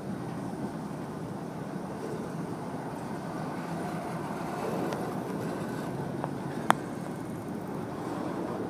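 Freight cars of a Florida East Coast Railway train rolling slowly past on the rails, a steady low rumble of wheels on track. A sharp click sounds about two-thirds of the way through.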